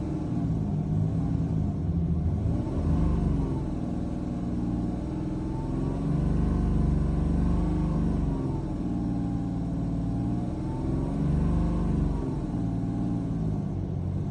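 BMW N57 3.0-litre straight-six turbodiesel in an X3 F25 being revved up and let back down several times, every few seconds, with the extraneous noise the owner is chasing.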